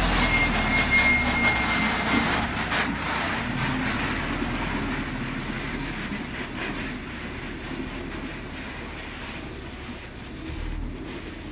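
Fully loaded sand dump truck's diesel engine labouring on a climb, fading as it pulls away. A thin, high, steady squeal sounds over it for about the first two seconds.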